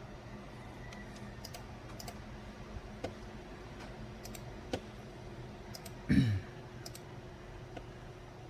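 Scattered clicks and taps of a computer keyboard and mouse over a steady low hum. About six seconds in, a brief louder sound drops in pitch.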